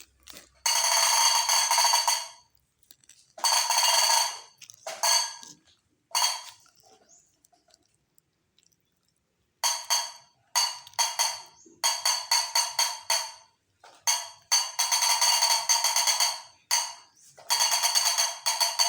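Repeated bursts of bright percussive sound, each starting sharply and fading, some in quick runs and others held for a second or two, with a few seconds' pause partway through.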